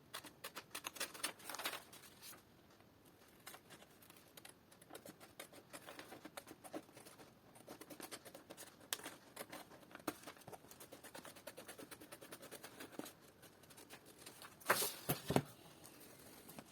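Scissors cutting out a pattern: a long run of short, irregular snips, with louder handling noise from the material near the end.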